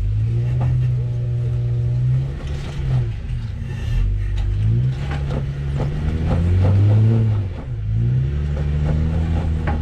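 An off-road 4x4's engine crawling over rocks, its revs rising and falling several times as throttle is fed in and let off. A few short knocks sound from the rocks and the chassis.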